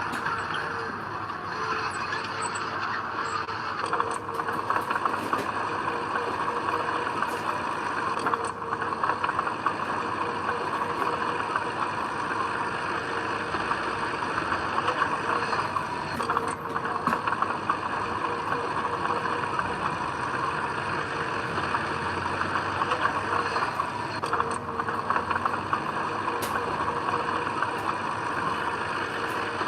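Heavy diesel earthmoving machinery running steadily, with a dense clatter of metal rattles and clicks.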